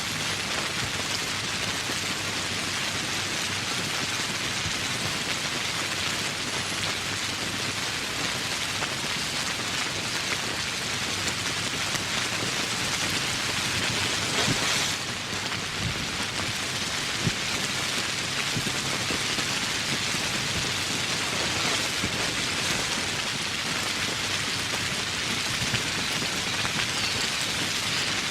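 Steady rain falling as an even, dense hiss of drops, swelling briefly about halfway through.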